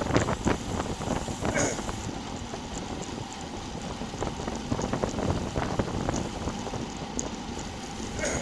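Wind buffeting the microphone of a bicycle-mounted camera while riding, a low rumbling noise that is strongest at the start and then settles to a steady level.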